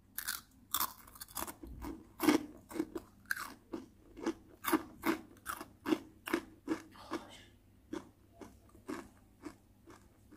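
A person chewing crisp karak rice crackers made from dried leftover rice: a steady run of sharp crunches, about three a second, growing fainter near the end.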